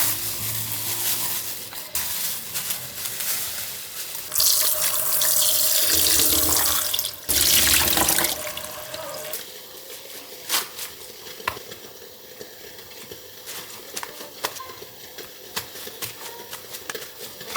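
Kitchen tap running into a sink in two loud spells around the middle, stopping briefly between them, with light clicks and knocks before and after.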